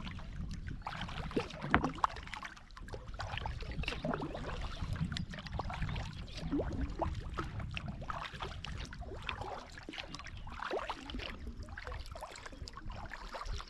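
Kayak being paddled: the blades dip and splash irregularly and water laps at the hull, over a steady low rumble.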